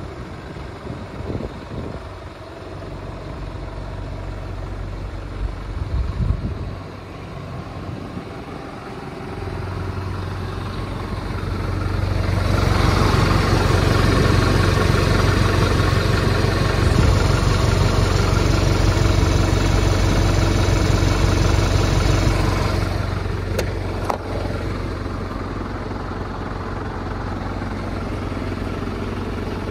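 MAN TGL 8.180 truck's four-cylinder diesel engine running, with a steady low hum. It grows louder for about ten seconds in the middle, then settles back to a steady idle.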